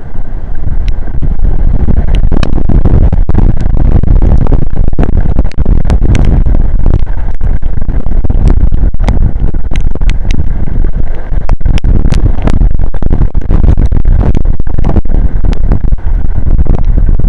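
Strong storm wind buffeting the nest camera's microphone in heavy rain: a loud, continuous rumbling rush, with sharp ticks and cracks scattered throughout.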